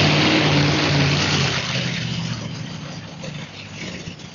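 A large vehicle engine running loud with a strong hiss over it, dying down after about two seconds.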